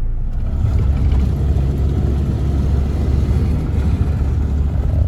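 Camper van on the move: a steady low engine and road rumble.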